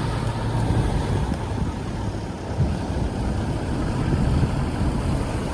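Suzuki outboard motor purring steadily.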